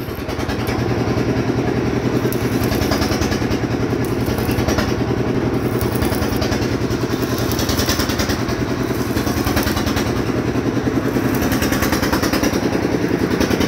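An engine idling steadily with a fast, even chug.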